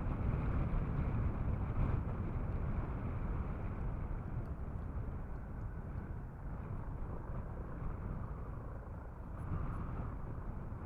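Jet engines of a departing Emirates airliner, a deep steady rumble that is loudest at first and slowly fades from about four seconds in as the aircraft climbs away after takeoff.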